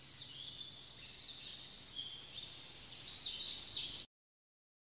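Birds singing: quick high chirps, trills and sweeping whistles, cutting off abruptly about four seconds in.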